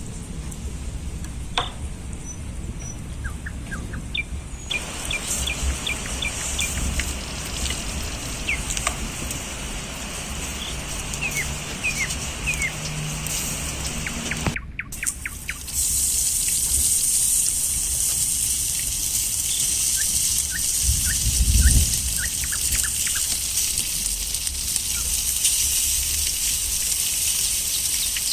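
Small birds chirping in short, high calls again and again over a steady outdoor hiss and a low rumble like wind on the microphone; about halfway through the background noise jumps up abruptly and grows louder.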